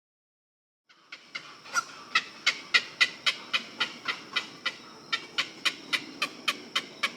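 An animal calling in a fast, even series of short, sharp notes, about four a second, starting about a second in.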